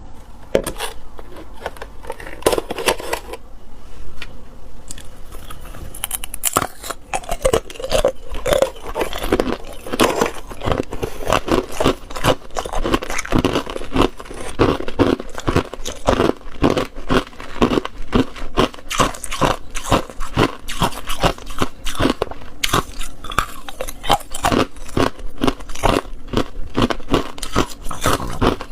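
A person biting and chewing hard ice cubes close to the microphone: rapid, repeated crunching and cracking.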